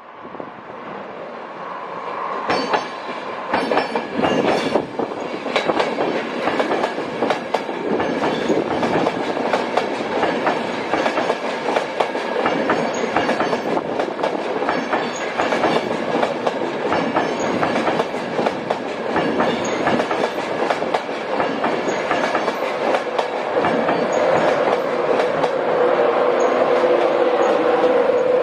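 A train running through the station, its wheels clattering over rail joints in quick succession. The sound grows louder over the first few seconds and stays loud, and a steady tone joins in near the end.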